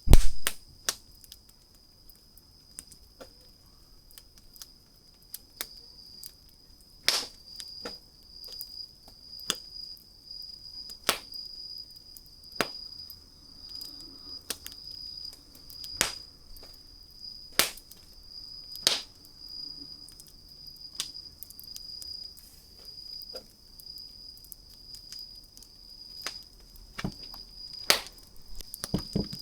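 Wood campfire crackling, with sharp irregular pops every second or two, the loudest one right at the start. A steady high-pitched whine runs beneath the crackle.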